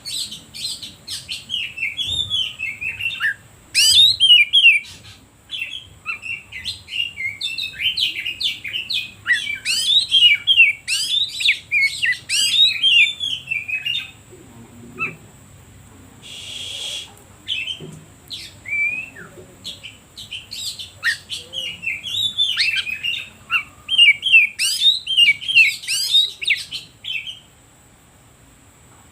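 Oriental magpie-robin (kacer) singing: fast runs of varied whistles, trills and chirps in a loud, continuous song. The song breaks off for a few seconds around the middle, where there is a short hiss, then resumes and goes quiet near the end. A faint steady high whine sits underneath.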